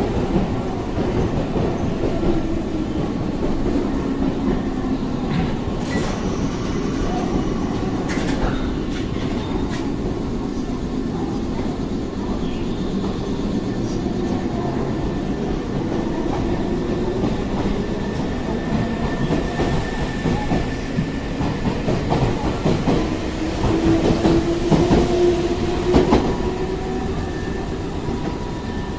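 Nankai electric commuter train moving along the platform: a traction-motor whine that changes pitch, over rolling rumble and wheels clacking on the rails. A few sharp clicks come early on, and a steady high tone joins in the last third.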